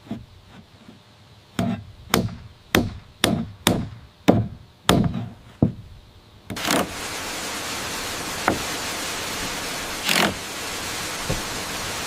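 A run of about eight sharp strikes on wood, a little under two a second, such as tool blows in construction work. About six and a half seconds in, a steady rush of falling water from a waterfall takes over, with a few single knocks over it.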